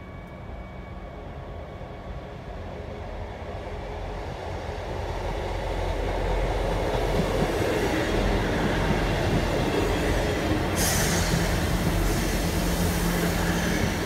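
A train approaching and passing close by on the track, its noise building over the first six seconds and then holding loud. A high hiss joins suddenly near the end.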